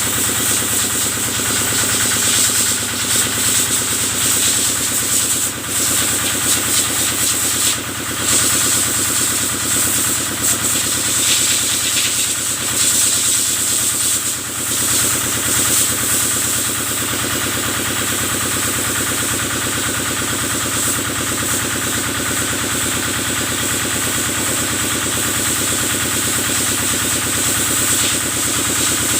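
Kubota engine running steadily, driving a pressure washer, with the hiss of its water spray.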